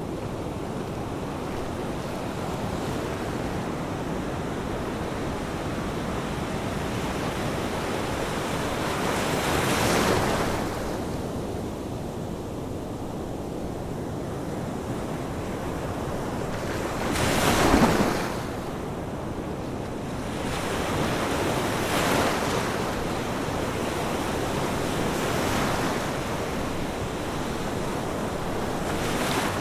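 Ocean waves breaking on a shore over a steady wash of surf, with several swells; the loudest wave breaks a little past halfway.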